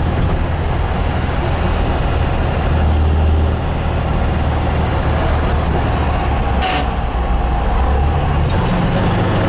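1967 MGB GT's 1.8-litre four-cylinder engine pulling steadily under way, with road noise heard from inside the cabin. There is a brief click about two-thirds through, and near the end the engine note steps up as the car is downshifted.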